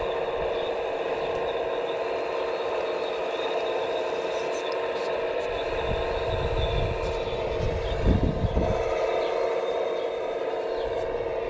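Steady electric whine of a radio-controlled scale construction model's motor running, with a louder low rumble swelling about six seconds in and peaking around eight seconds.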